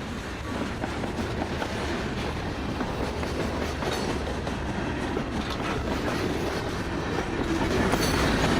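Train running along the track: a continuous rumble and rattle that grows gradually louder.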